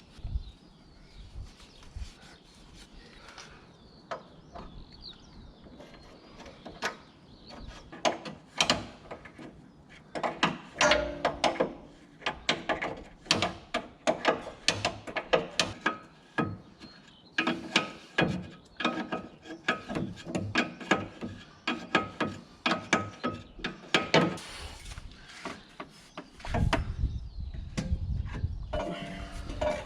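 Hand tools working on metal parts: quick runs of sharp clicks and light metallic knocks, thickest through the middle, with a low rumbling thump near the end.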